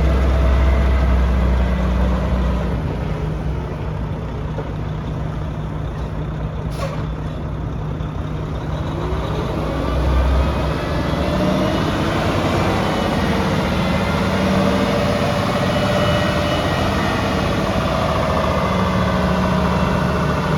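Mack CXU Pinnacle semi truck's diesel engine running steadily with a low rumble, with a short sharp hiss about seven seconds in and the engine note shifting in pitch through the second half.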